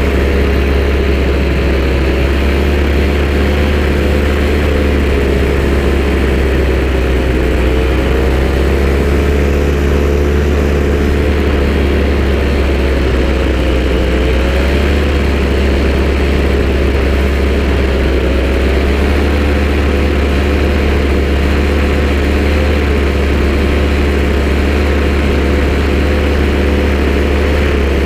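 An engine running steadily at idle, loud and unbroken, its pitch drifting slightly up and down.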